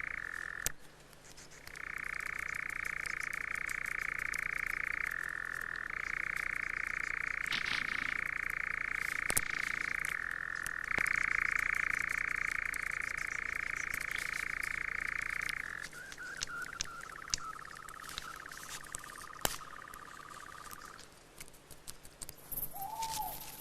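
An animal's long, even churring trill, in stretches of several seconds with short breaks, dropping lower and fainter about sixteen seconds in before stopping, with faint scattered clicks.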